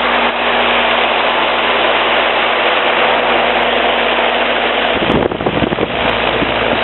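Concord heat pump running in heat mode: a steady rush of air with a constant hum underneath. About five seconds in, a second or so of irregular low rumbling breaks in.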